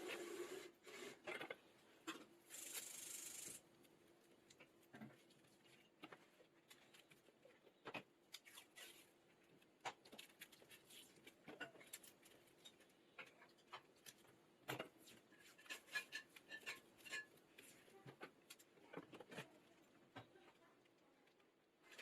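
Faint handling sounds of lithium-ion cell packs being taped up: a brief rasp about three seconds in, then scattered small clicks and rubs.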